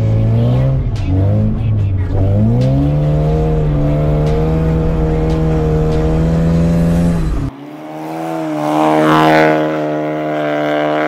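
Classic VAZ Zhiguli's four-cylinder petrol engine at high revs, heard inside the cabin while drifting. Its pitch dips twice, then climbs and holds steady. About seven and a half seconds in, the sound cuts abruptly to the car heard from outside, its engine revving with a rising pitch.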